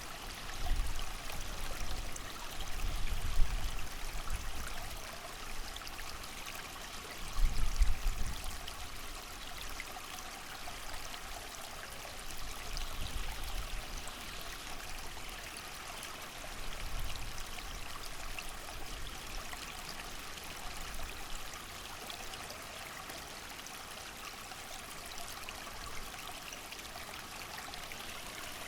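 Creek water running steadily with rain, and low gusts of wind swelling a few times, strongest about three and eight seconds in.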